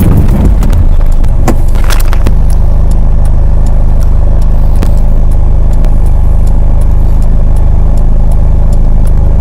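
Vehicle engine running steadily, a loud low hum heard from inside the cabin, with scattered sharp ticks and clicks. A rougher, noisier rumble settles into the steady hum about two seconds in.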